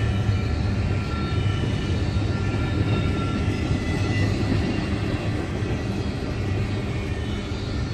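Train rolling by with a steady low rumble, with faint high squealing tones drifting over it.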